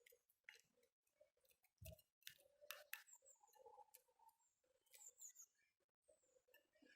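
Faint, brief high chirps from small backyard birds, mixed with scattered soft clicks and taps.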